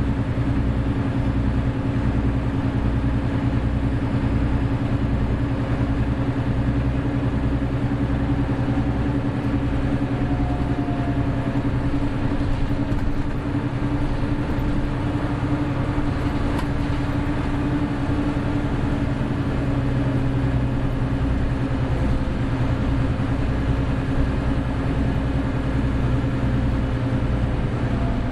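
Hino Blue Ribbon City Hybrid bus's diesel engine running at a steady speed, with a faint thin whine that rises about ten seconds in.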